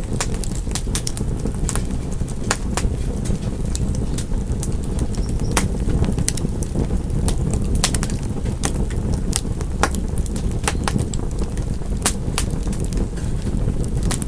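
Wood fire crackling steadily: a low continuous rumble of burning with frequent sharp, irregular pops and snaps.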